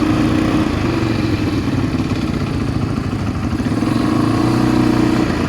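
ATV engine running under way, its pitch dipping slightly and then rising again with the throttle.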